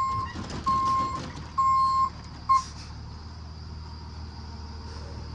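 Box truck's reversing alarm beeping about once a second over the low running of the engine. It stops after a last short beep about two and a half seconds in, as the truck stops backing up, and the engine keeps running.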